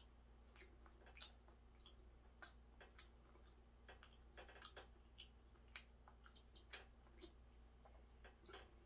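Faint, irregular wet clicks and smacks of a person chewing raw cutlassfish, with a low steady hum underneath.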